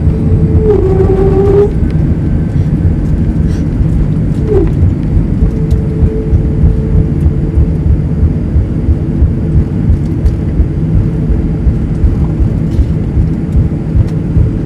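Airbus A320 cabin noise heard from a window seat: a loud, steady low rumble of the jet's engines and airflow, with a faint held whine.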